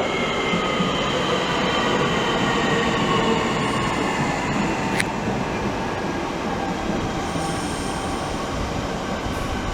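Class 465 Networker electric multiple unit pulling into the platform and slowing, its motor whine made of several tones that slowly fall in pitch. A single sharp click comes about halfway through.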